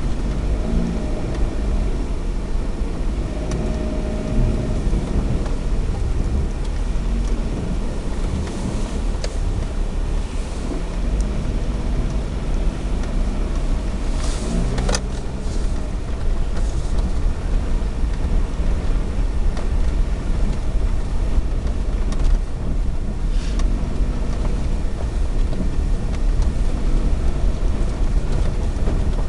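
Suzuki Alto 4WD kei car driving, heard from inside the cabin: a steady low engine and road rumble, with the engine note rising and falling now and then. A single sharp knock about fifteen seconds in.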